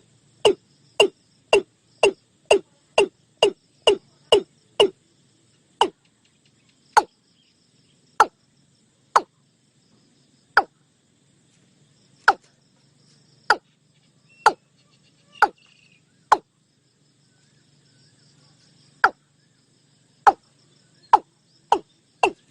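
Watercock (Gallicrex cinerea) calling: a run of short, sharp "kok" notes, about two a second at first, then slowing about five seconds in to single notes spaced a second or more apart.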